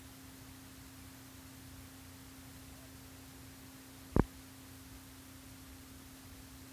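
Faint steady electrical hum at one low pitch, with a single sharp click about four seconds in.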